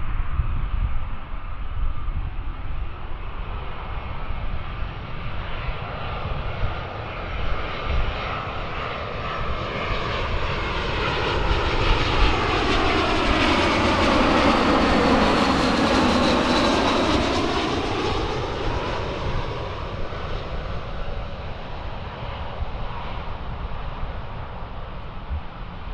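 British Airways Airbus A320-232 jet airliner on its arrival approach, passing by. Its IAE V2500 engine noise builds, peaks a little past halfway with sweeping tones as it goes by, and then fades, over a gusty low rumble.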